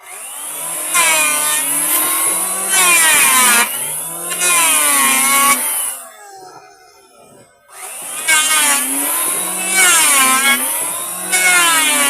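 Electric wood planer planing a board, its motor whine dipping and rising in pitch over and over with a steady high hiss of cutting. It stops about six seconds in for under two seconds, then starts cutting again.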